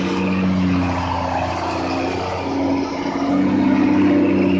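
A truck engine running under load at low speed; its pitch dips about two seconds in, then rises again.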